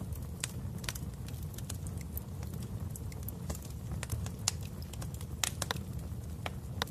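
Wood fire burning in a fireplace: irregular sharp pops and crackles over a steady low rumble.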